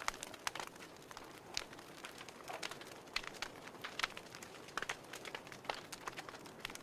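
A fire crackling: irregular sharp pops and snaps, a few louder than the rest, over a soft steady hiss.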